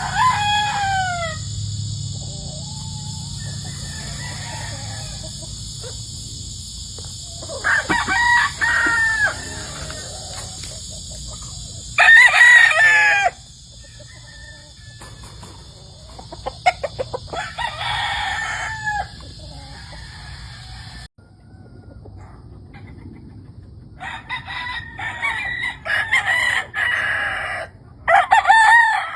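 Gamefowl roosters crowing again and again, several separate crows spread through the stretch, the loudest about twelve seconds in and a cluster near the end. Under the crows is a steady high buzz that stops abruptly about two-thirds of the way through.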